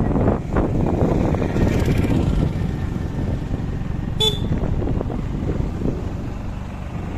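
Motorcycle running on the road, a steady low rumble. A brief sharp beep comes about four seconds in.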